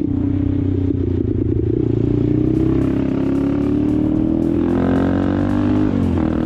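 Motorcycle engine under acceleration, its pitch rising slowly for about five seconds, then dipping briefly about six seconds in as it shifts gear.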